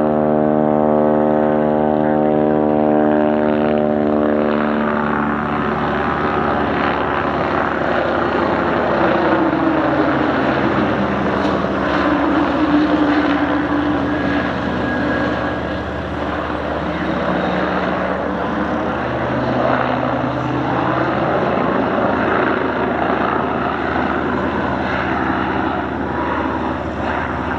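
Propeller aircraft flying past: a steady engine drone whose pitch sinks slightly as it passes. It gives way to a broad rushing noise with a note that swells and fades midway.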